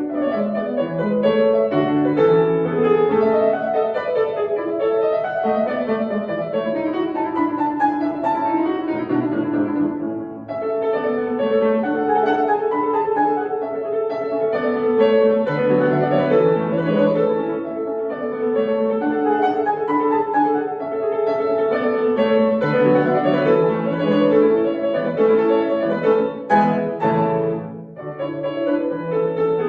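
Solo piano playing a classical piece, a continuous run of quick notes with a brief pause about ten seconds in and a few sharp accented chords near the end.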